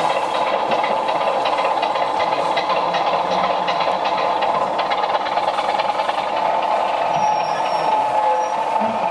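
Model train running along a layout's track: a steady, fairly loud whir and rattle of the small motor and wheels on the rails, with fast fine clicking throughout.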